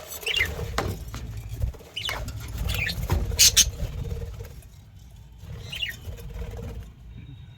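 Budgerigars giving a few short chirps amid scratching and rustling, with a loud clatter about three and a half seconds in.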